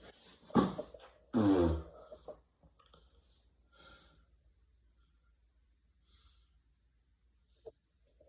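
A man breathing out heavily, with a short voiced sigh that falls in pitch about a second and a half in, then a few soft breaths.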